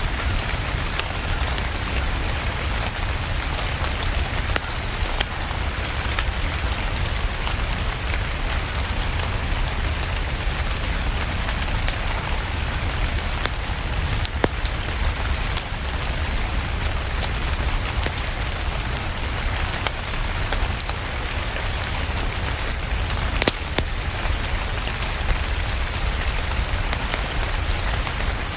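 Steady rain falling, with many scattered sharp crackles over it and a low rumble underneath.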